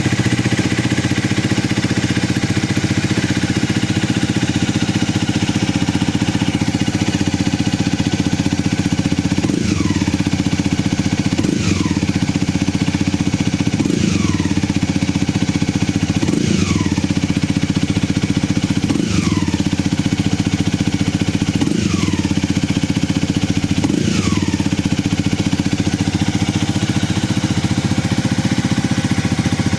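Honda CL250's single-cylinder engine idling through an SP Takegawa SSS aftermarket muffler. From about a third of the way in it gets seven short throttle blips, two to three seconds apart, each dropping back to idle.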